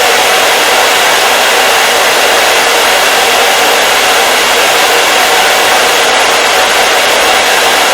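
Hair dryer running steadily, a constant loud whooshing hiss with a faint motor hum that never changes.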